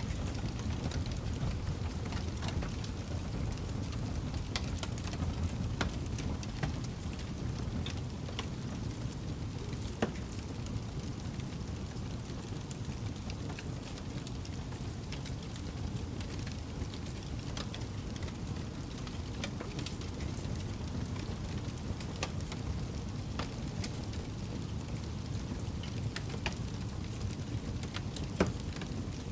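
Campfire crackling: a steady low rumble of burning wood with irregular small pops and snaps, and a couple of sharper pops about ten seconds in and near the end.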